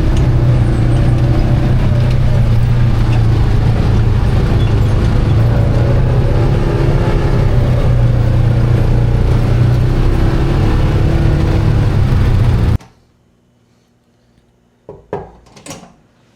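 ATV engine running steadily at cruising speed while riding, a constant low drone. It cuts off abruptly near the end, leaving a quiet room where a few light knocks sound.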